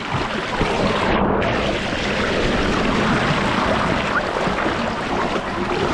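Rushing water and wind buffeting the microphone in a steady, loud noise, as on a ride down a water slide.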